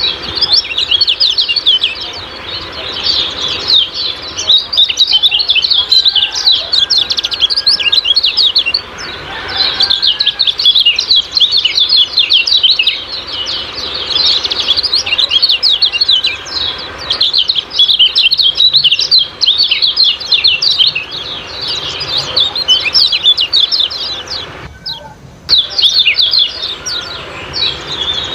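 Kecial kuning giving its rapid 'ciak-ciak' call, a dense, almost unbroken chatter of short high chirps, with a brief break about 25 seconds in.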